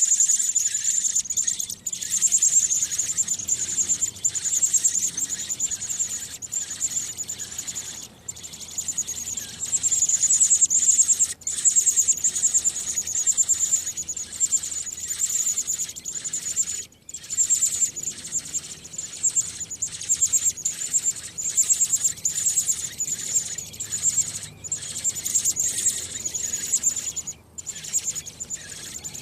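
American robin nestlings begging in the nest: a dense stream of high, rapid peeps that runs almost without pause, dropping out briefly a few times.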